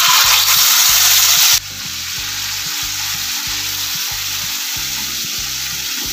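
Tomato paste hitting hot oil in a non-stick kadai, with a loud sizzle for about a second and a half. The sizzle drops suddenly, then runs on as a steady frying sizzle while the paste is stirred with a spatula.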